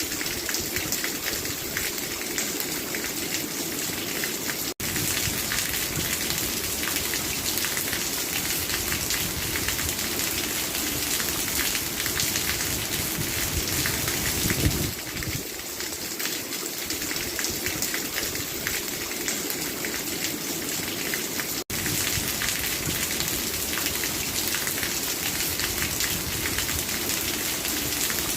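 Steady rain falling, a dense even patter with a brief louder swell about halfway through. The sound cuts out for an instant twice, about 5 and 22 seconds in.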